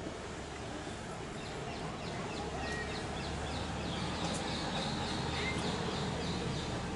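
Steady outdoor background noise with a low hum. From about a second and a half in, a bird gives a quick run of short, high, falling notes, about three a second, for a few seconds.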